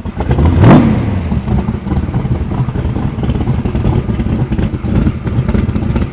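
Roush 427SR V8 of a Superformance MKIII Cobra, breathing through side pipes: one quick rev about half a second in that rises and falls back, then the engine runs on at a steady, rapid low rumble.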